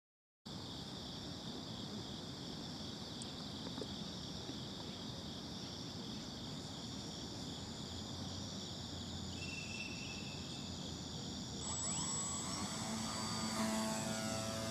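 Steady high-pitched insect chorus. About twelve seconds in, a model aircraft's propeller motor starts and spins up with a rising whine, growing louder toward the end.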